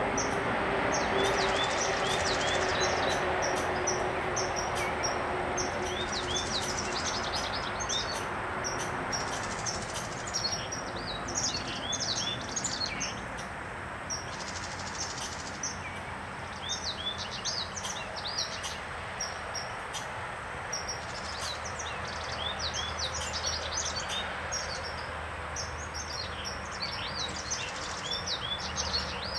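Songbirds chirping in short clusters of high calls, some sliding downward, scattered through the whole stretch over a steady background rush that is louder for the first several seconds.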